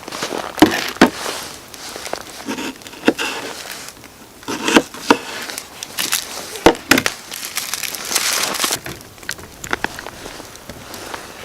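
Crinkling and rustling with irregular sharp clicks and knocks, the loudest about a second in and again around five and seven seconds in.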